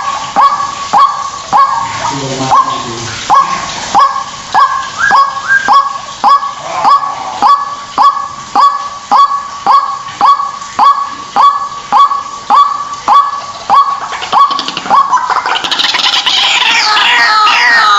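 White-breasted waterhen calling a loud, monotonous, repeated 'ruak-ruak', about one and a half calls a second. About three-quarters of the way through, the calls turn into a faster, more jumbled chorus.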